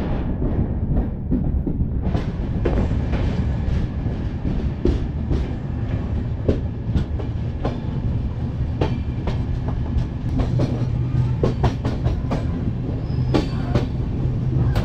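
Moving passenger train heard at an open coach door: a steady low rumble of the running coach, with irregular sharp clacks of the wheels over the rail joints.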